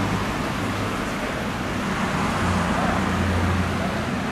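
A large vehicle engine running steadily with a low hum, over street noise.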